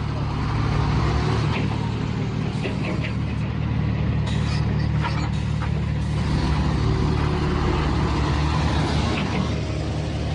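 A heavy vehicle's diesel engine running steadily, with a few short clicks and knocks over it.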